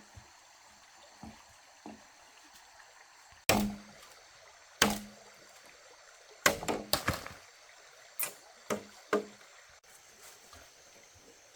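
A series of about nine sharp knocks at irregular spacing: two single blows a little over a second apart, a quick run of four, then three more about half a second apart.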